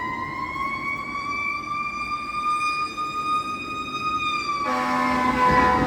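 Emergency vehicle siren wailing, its tone slowly rising. About three-quarters of the way through, a lower, harsher horn-like tone cuts in and the wail starts to fall.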